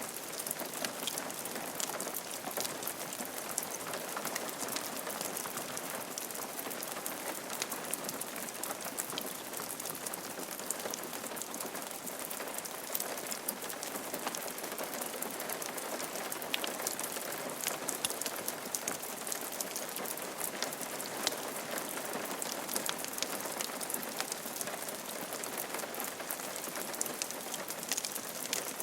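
Steady rain falling on a roof: an even, constant hiss with many sharp ticks of single drops scattered through it.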